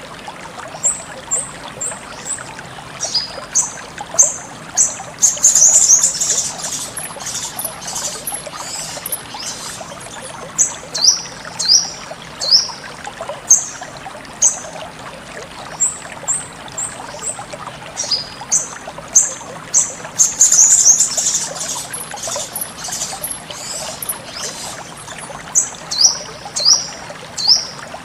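Sogon bird calling in short, sharp, high chirps, some sliding down in pitch, with two rapid twittering runs, over a steady trickle of flowing water.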